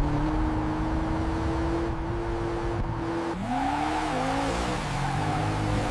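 Car engine running at speed with road noise. About halfway through the engine note drops and then rises again, as the car accelerates.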